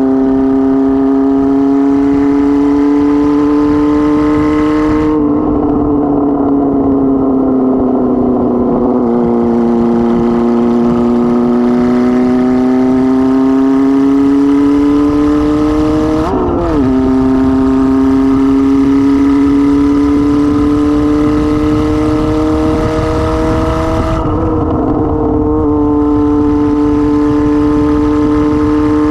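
Kawasaki ZR-7's 750cc air-cooled inline-four, running unmuffled with no exhaust silencer, pulling along on the road. The engine note sinks as the throttle eases off about five seconds in, then climbs slowly, with a quick dip and recovery like a gear change about sixteen seconds in. A low rumble of wind noise sits underneath.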